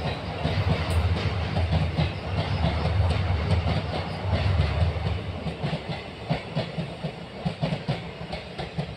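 Passenger train coaches rolling past, wheels clattering over the rail joints in a steady clickety-clack. The heavy rumble fades about five seconds in as the last coaches go by, leaving sharper wheel clicks that grow fainter.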